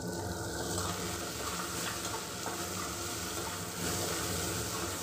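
Sliced onions, green chillies and curry leaves sizzling as they sauté in hot oil in a kadai, stirred with a slotted steel spoon that scrapes and taps against the pan now and then.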